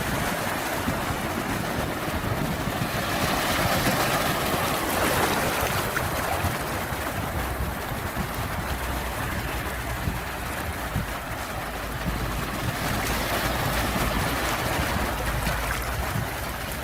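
Sea waves washing ashore in a continuous surf, swelling louder about three seconds in and again near the end, over a low rumble.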